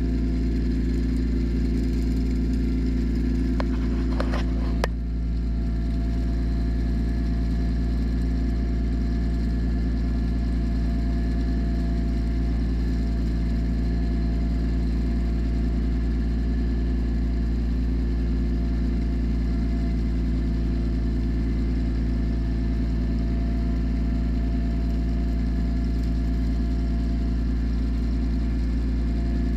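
Tractor engine running steadily at working speed, driving an Oliver 356 sickle bar mower through the PTO while it cuts ditch grass. A brief clatter comes about four seconds in, then a small dip in the engine sound.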